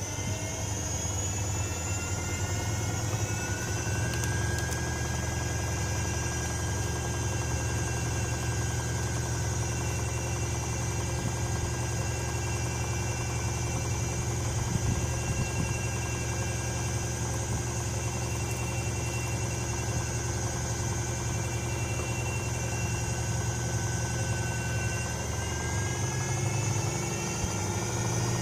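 Privileg Sensation 9245 washing machine spinning: a motor whine rises in pitch over the first few seconds as the drum speeds up, then holds steady over a low drum rumble, and climbs again near the end.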